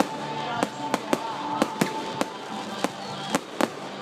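Fireworks display going off in a quick string of sharp bangs, about ten in four seconds, with music playing underneath.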